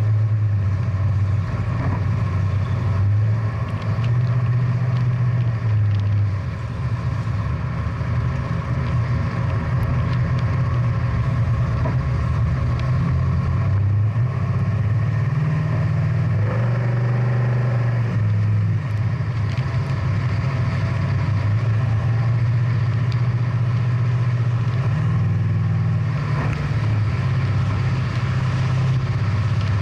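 Big-block V8 muscle car engine running steadily at low revs, a continuous low rumble.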